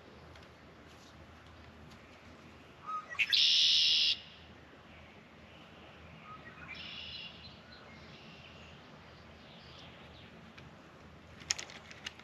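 A bird calling: one loud, shrill call about a second long a few seconds in, then a fainter one a few seconds later, over a quiet outdoor background. A few sharp clicks near the end.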